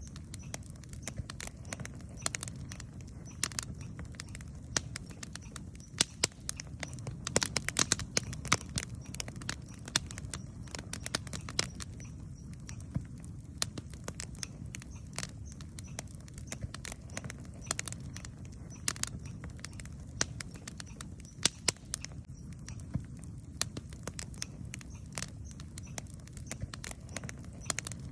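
Wood campfire crackling and popping: irregular sharp snaps, a few much louder than the rest, over a steady low rumble of the burning fire.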